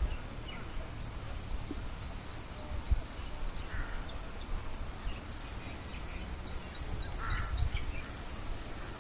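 Birds calling in the open: a few short, harsh caw-like calls near 4 s and 7 s, and a quick run of about six rising high chirps from a small bird near the end, over a steady low rumble on the microphone.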